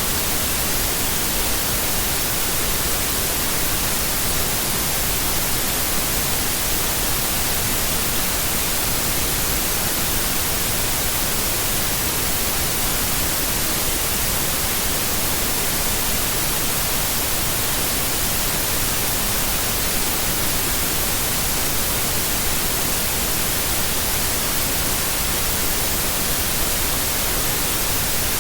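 Steady white noise, a flat, even hiss that stays on without change.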